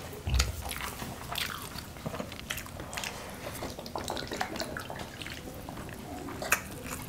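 Close-miked chewing and eating: mouths chewing chicken biryani and fingers working the rice on banana leaves, heard as scattered soft clicks and smacks. A soft low thump comes shortly after the start.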